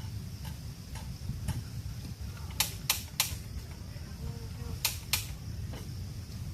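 Sharp clicks or snaps, three in quick succession and then two more a couple of seconds later, with a few fainter ones, over a steady low rumble of wind on the microphone.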